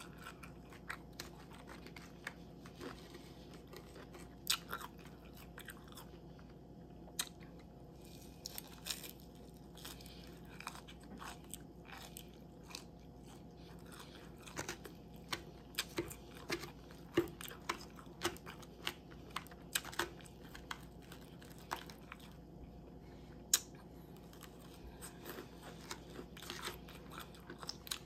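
A person chewing and crunching mouthfuls of salad, with irregular crisp crunches scattered throughout.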